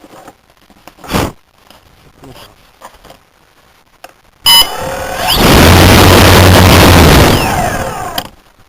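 Electric motor and propeller of a Multiplex Blizzard RC plane, heard through the onboard camera, run up for about three seconds: a sudden sharp start, then a very loud, distorted rush with a steady low hum, stopping near the end. Before that there are only a few faint knocks.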